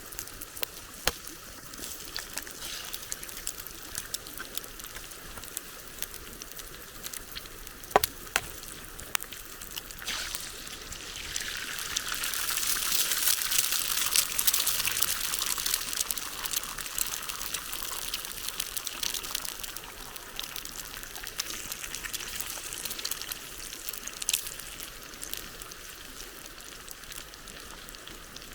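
Water trickling and pouring, swelling louder for several seconds partway through, with scattered sharp drips or clicks.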